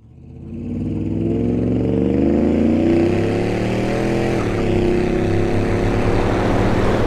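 A car engine running under load, fading in over the first second and then holding loud and steady, its pitch climbing a little over the first few seconds.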